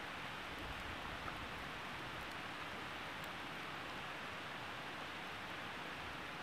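Campfire burning with a steady hiss and a few faint, sparse crackles.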